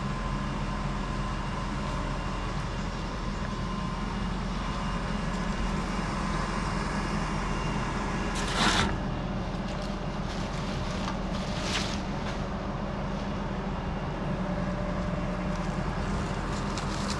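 Large truck engine running steadily, the engine of the crane truck used for the tree removal, with a brief hiss about eight and a half seconds in.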